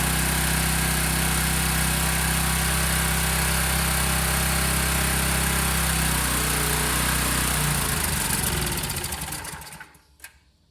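Briggs & Stratton small engine on a pressure washer running steadily, then winding down about eight seconds in and stopping, followed by a single click. It would only run with the choke on, which the owner puts down to maybe a fuel issue or a clogged filter.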